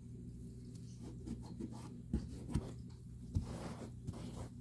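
Faint rubbing and scratching of a bird cage wheel being wiped clean by hand, with a few light knocks, over a steady low hum.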